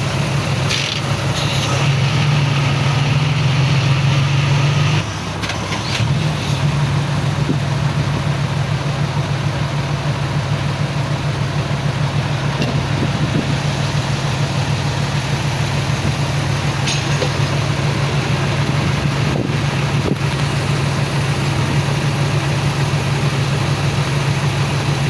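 Heavy diesel engine of earthmoving machinery running steadily with a low drone. About five seconds in it dips briefly, then picks back up to a steady run.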